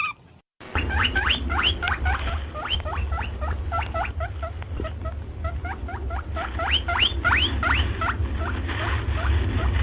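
Chipmunk chip-calling: a rapid string of short, high chirps, each sweeping upward, repeated about three times a second over a low steady rumble.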